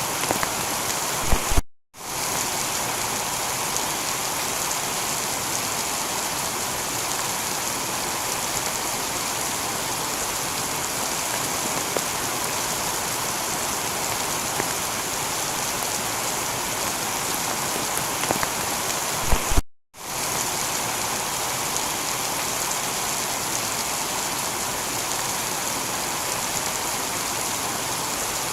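Steady heavy rain falling on a tiled roof. Twice it cuts to silence for a split second, each time just after a sharp click: the seam where the recording loops.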